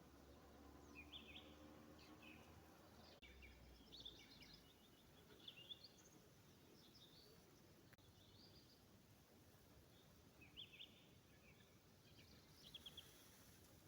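Faint songbirds chirping and trilling in short, repeated phrases, several at a time. A low steady hum underlies the first three seconds, then stops.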